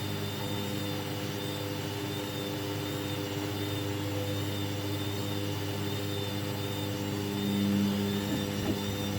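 Hoover Baby washing machine running its first rinse: a steady electric motor or pump hum, swelling briefly a little before the end, with a small click near the end.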